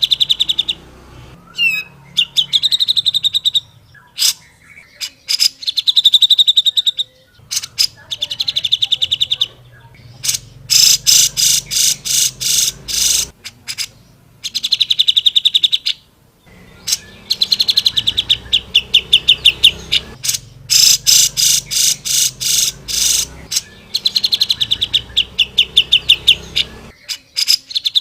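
Cucak jenggot (grey-cheeked bulbul) singing loudly in bursts of rapid, trilled chattering notes a few seconds long, with short pauses between them.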